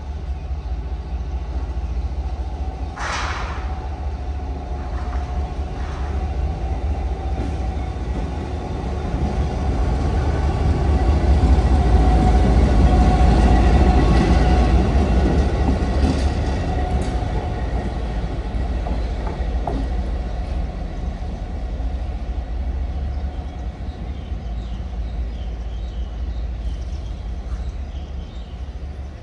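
Taiwan Railway train passing through a station: a steady rumble and wheel rattle that builds to its loudest about halfway and then slowly fades. A brief high-pitched sound stands out about three seconds in.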